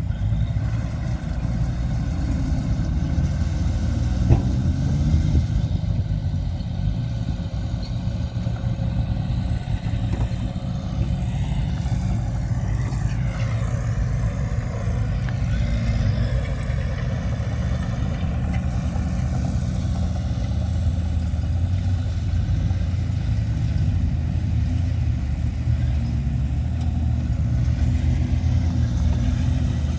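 Diesel engine of heavy earthmoving machinery running steadily with a deep drone, with one sharp knock about four seconds in.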